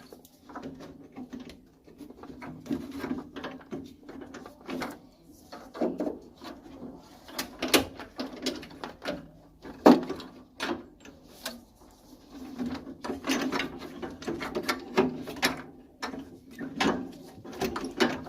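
Repeated clicks, knocks and rattles of tools and boiler parts being handled during a repair, the loudest knock about halfway through, over a steady low hum.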